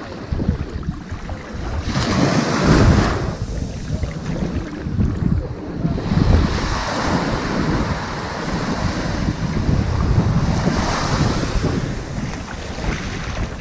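Ocean waves washing onto a sandy beach, the surf swelling and fading three times, about every four seconds, over a continuous low rumble.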